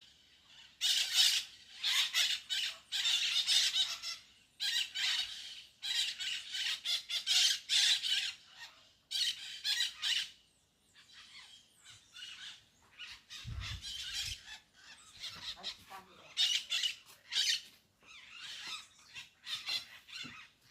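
A flock of birds squawking: clusters of loud, harsh, high calls with short pauses, thinning out and growing quieter about halfway through. A brief low rumble comes about 13 seconds in.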